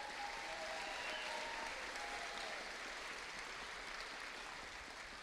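Audience applauding in a hall, slowly fading.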